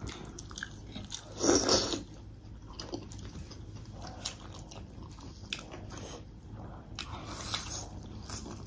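A person biting and chewing food, with one louder, longer burst about one and a half seconds in, then scattered short wet clicks of chewing.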